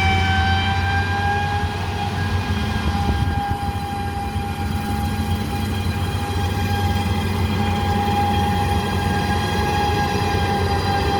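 Harvest machinery working: a steady, low engine rumble with a high mechanical whine over it.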